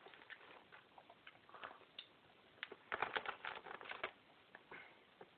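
Someone chewing a dry, chewy fish snack strip: faint, irregular small clicks and crackles, busiest about three to four seconds in.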